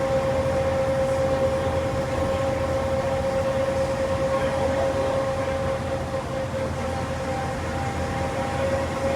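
Ride in a moving vehicle: a steady low rumble with a constant whine holding one pitch.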